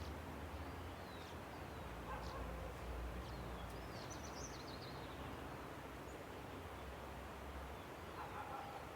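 Steady rush of a river, with scattered short bird chirps and a quick descending bird trill about four seconds in. A couple of lower calls come at about two seconds and again near the end.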